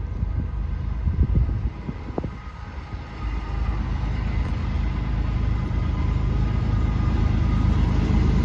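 Two BNSF diesel locomotives approaching, their low engine rumble growing steadily louder from about three seconds in.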